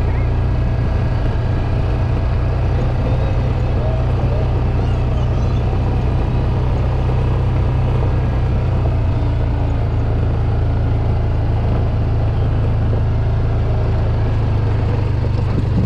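Side-by-side utility vehicle's engine running steadily while driving, heard from aboard the vehicle.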